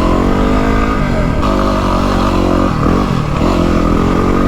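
Yamaha WR250R's single-cylinder four-stroke engine running under throttle while riding. The revs dip briefly about halfway through, then rise again.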